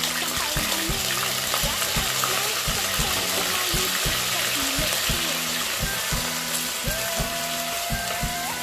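Raw prawns sizzling and frying in hot oil with sautéed onion and garlic in a stainless steel pot, a steady crackling hiss.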